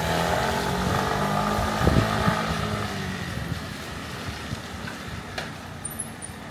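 Motor vehicle engine running close by, then fading away as it moves off.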